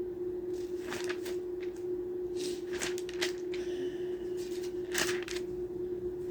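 Thin Bible pages being turned and rustled in a series of short papery swishes, the loudest about five seconds in, over a steady low hum.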